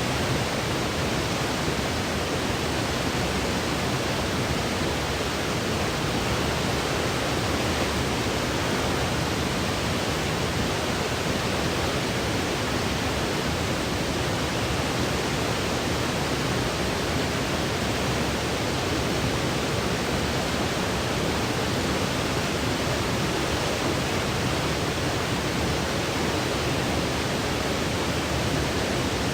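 Steady electronic white noise for sleep: an even, full hiss that never changes.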